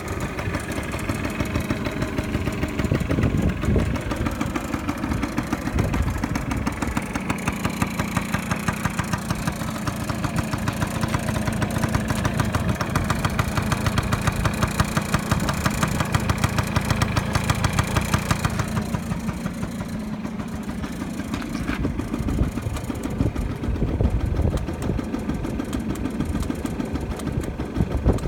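TD01's engine idling with an even beat. About two-thirds of the way in it drops lower and quieter for a few seconds, then picks back up.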